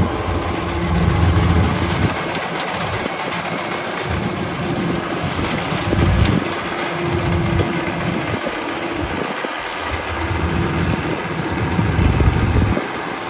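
World Star WS7.0 combine harvester, with its 88 hp Changchai diesel engine and axial-flow thresher, running steadily with a constant whine. Gusts of wind on the microphone rumble now and then.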